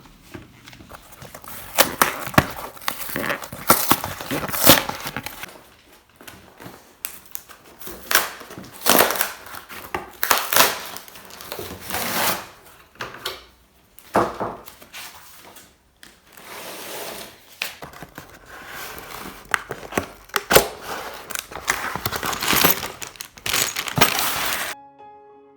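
Close-up handling noises: a busy run of sharp clicks, knocks and crinkling in bursts, stopping suddenly near the end.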